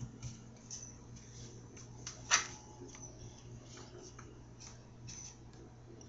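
Scattered light clicks and ticks, with one louder sharp click about two seconds in, over a low steady hum.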